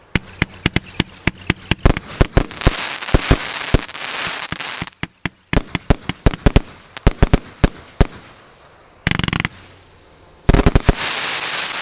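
A 150-shot, 1.2-inch firework cake firing rapid volleys of shots, with long crackling between the volleys and a dense loud burst about nine seconds in.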